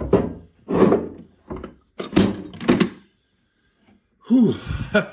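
A heavy steel Kennedy machinist's tool box being handled and set down: about five short clunks and knocks in the first three seconds. A breathy "whew" of effort near the end.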